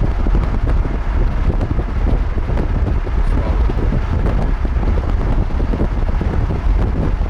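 Strong wind buffeting the microphone: a loud, steady low rumble with constant gusty flutter and no separate events.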